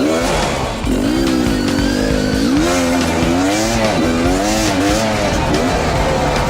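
Dirt bike engine revving up and down over and over, its pitch rising and falling every second or so.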